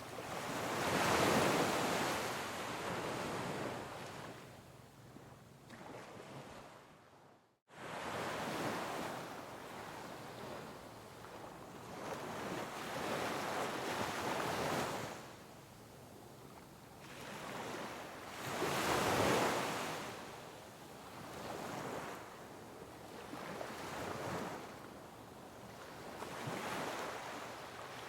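Sea waves breaking and washing over coastal rocks in repeated swelling surges of surf, the biggest about a second in and again about two-thirds of the way through. The sound drops out completely for a split second about a quarter of the way in.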